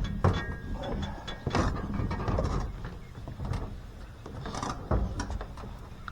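Handling of tools and engine parts: irregular clicks, sharp knocks and scraping, with a louder knock right at the start and another about five seconds in.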